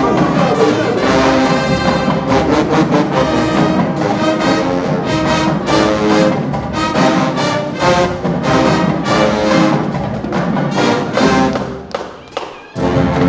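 Show-style marching band playing loud brass, with drum hits keeping a steady beat. Near the end the band briefly cuts out, then comes back in together.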